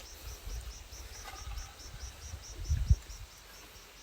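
An insect chirping in a steady, even train of short high pulses, about five a second, with a low thump just under three seconds in.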